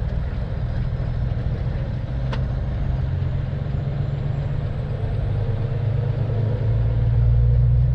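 Heavy tow truck's engine running steadily, a low drone that grows a little louder near the end, with a single click about two seconds in.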